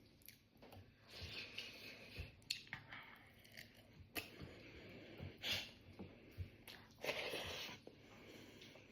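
Faint chewing of a mouthful of rice and curry, with short irregular clicks and soft mouth noises.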